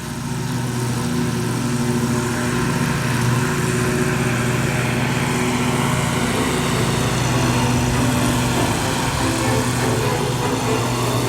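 Lawn mower engine running steadily at working speed, a continuous hum that comes up in level in the first second.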